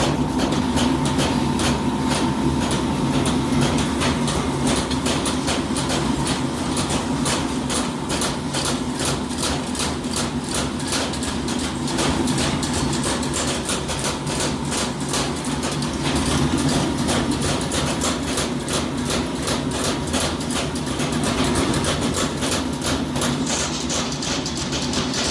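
Factory machinery running steadily: a constant hum with rapid, regular knocks throughout.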